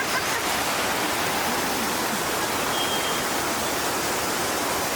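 Waterfall and fast-flowing stream water rushing and splashing, a steady, even noise without a break.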